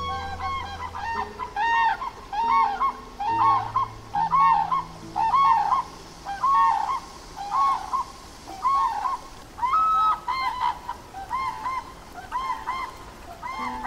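Grey crowned cranes calling: a long series of short, honking calls, about one to two a second, some coming in quick pairs.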